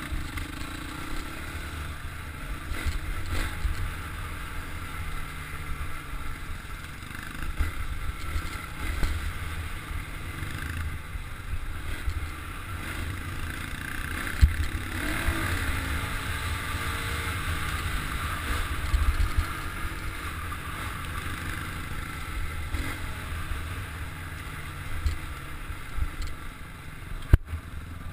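Dirt bike engine running under way on a rough trail, rising and falling with the throttle, heard through a helmet-mounted camera with heavy low rumble from wind and vibration on the microphone and a few sharp knocks from bumps.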